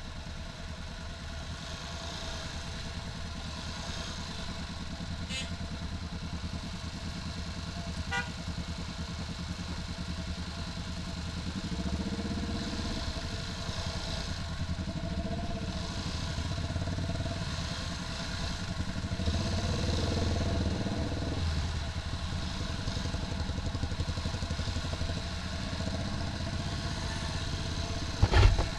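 Motorcycle engine running in slow traffic, rising and falling in pitch as it speeds up and eases off, with a short thump near the end.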